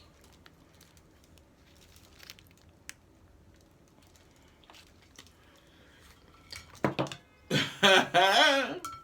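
Quiet eating sounds: soft chewing with faint clicks and rustles. About seven seconds in there is a brief clatter, which the eater takes for a flying spoon, followed by a loud voice with a wavering pitch.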